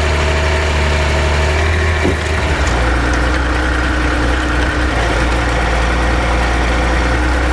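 Heavy truck's diesel engine running steadily at an even, low speed, with a held whine above the engine hum.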